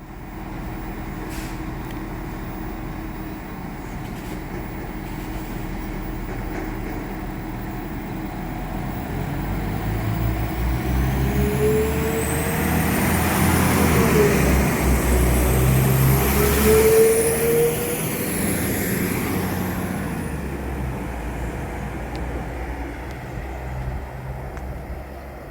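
Diesel train approaching and passing by: the engine note and a high whine build up, peak as it goes past a little past halfway through, with the pitch dropping as it passes, then fade away.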